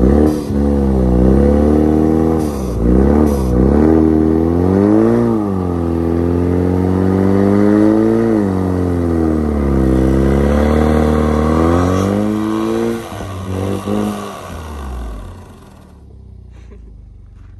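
Car engine revving hard through a burnout on ice, its pitch swinging up and down several times as the throttle is worked. About thirteen seconds in the revs drop away and the sound gets much quieter.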